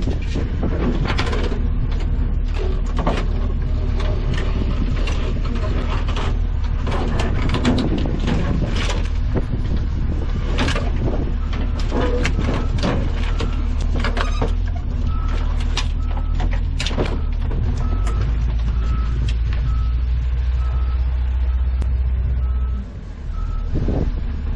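Strong wind buffeting the microphone as a heavy rumble, with scattered knocks and clicks. Past the middle, a vehicle's reversing alarm beeps steadily for several seconds at about one and a half beeps a second.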